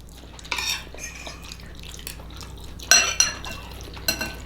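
Cutlery clinking and scraping against dinner plates during a meal, a few separate clinks with the loudest, briefly ringing one about three seconds in.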